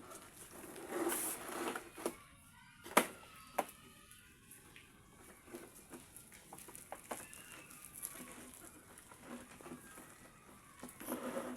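Rope tie-down being pulled tight and knotted around a refrigerator: rustling handling noise with a few sharp clicks, the loudest about two to four seconds in, and scattered small ticks after.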